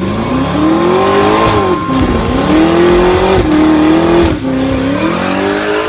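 Car engine accelerating hard: the pitch climbs, drops sharply, then climbs again about three times, as in shifts up through the gears.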